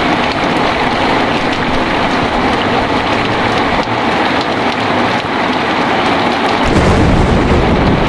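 Heavy rain falling steadily, with a low rumble of thunder that swells in near the end.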